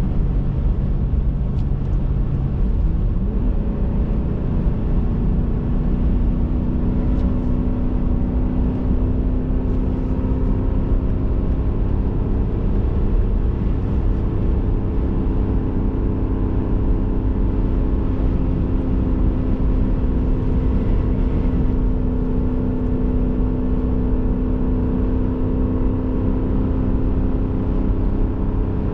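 Pickup truck driving at road speed while towing a travel trailer, heard from inside the cab: steady engine drone over low tyre and road rumble. The engine's tone changes about three seconds in, then holds steady.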